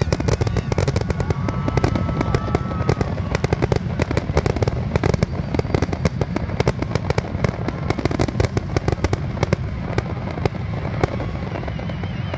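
Fireworks display going off: a dense, rapid run of sharp bangs and crackles, many a second, over a low rumble.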